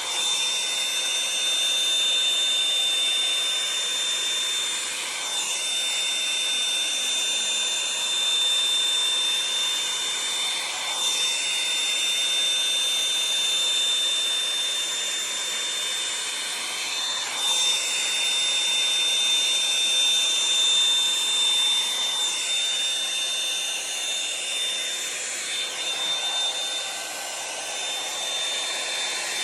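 Revlon One-Step hot-air brush dryer running steadily with a high whine. Every five or six seconds its sound briefly sweeps in pitch as it is drawn through a section of hair.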